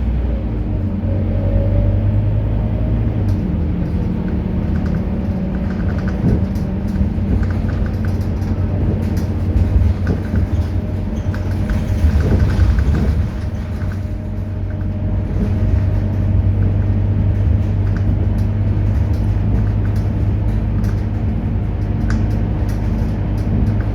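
Scania K230UB city bus's diesel engine running steadily under way with a low, even hum. It grows louder briefly about halfway through, eases off, then settles back to steady running.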